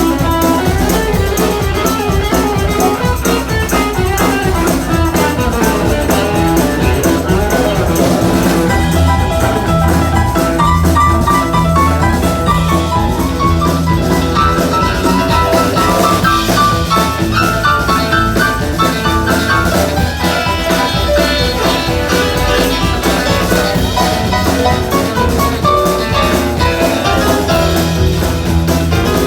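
Live band music with guitar and drum kit over a steady beat, a melodic line of short notes running above it.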